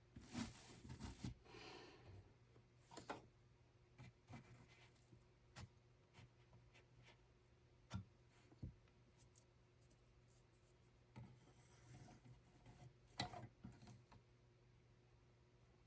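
Quiet, irregular rubbing and scraping with scattered light clicks and taps, as of hands handling small objects, over a faint steady hum.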